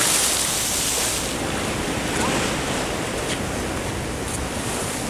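Ocean surf washing in: a steady hiss of breaking waves that slowly eases.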